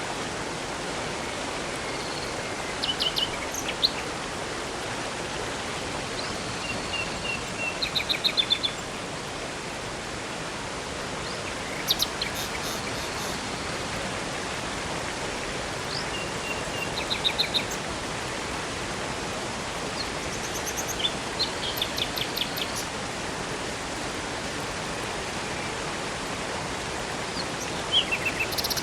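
Steady rush of flowing river water with birds chirping and trilling in short phrases every few seconds.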